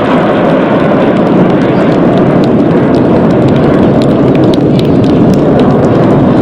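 Loud, steady roar of BAE Hawk jet engines from the Red Arrows display aircraft, swelling slightly about a second and a half in.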